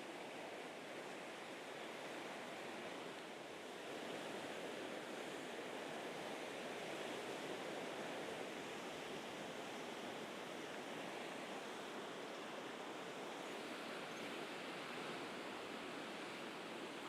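Mediterranean sea waves washing steadily against the rocky shore, a constant wash that swells a little about four seconds in.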